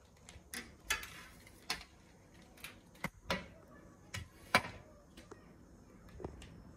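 Irregular light clicks and knocks of metal roof-basket bars and plastic joint parts being handled and fitted together, the sharpest knock about four and a half seconds in.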